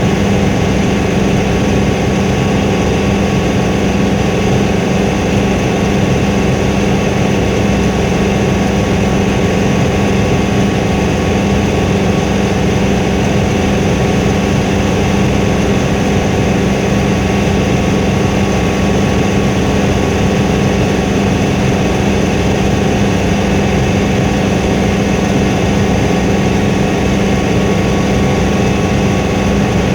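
Helicopter in flight: engine and rotors making a loud, steady drone with a strong low hum.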